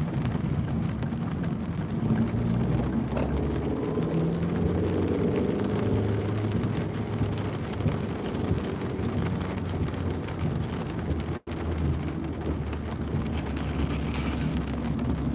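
City street ambience in the rain: a steady rush of rain and traffic rumble, with a vehicle's engine passing by in the middle. The sound cuts out for an instant about eleven seconds in.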